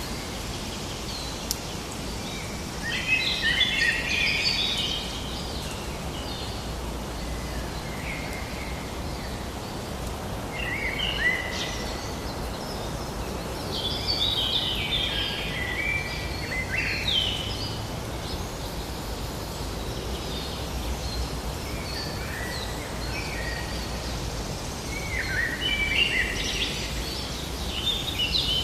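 Forest ambience: birds singing in several bursts of chirping phrases over a steady low background rush.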